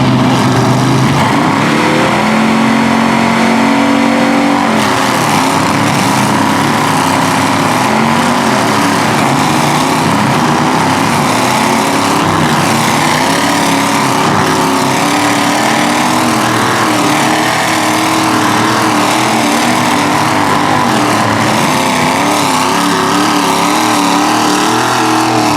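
Pickup truck engines revving hard under full load in a tug of war, their pitch wavering up and down, with the noise of spinning tyres.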